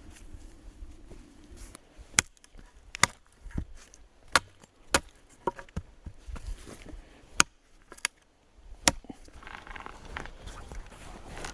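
Wood being chopped: about six sharp, loud strikes at irregular intervals, with a few lighter taps between them.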